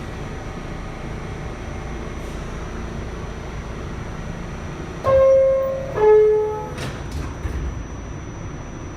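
Two-tone descending door chime of an R46 subway car, the first tone about five seconds in and the lower second tone about a second later, followed by a few knocks as the doors close. A steady hum from the car runs underneath.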